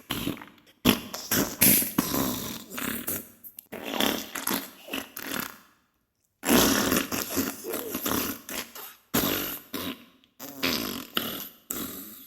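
Diarrhea and fart sound effect: a run of noisy bursts, five or so, with a pause of about half a second near the middle.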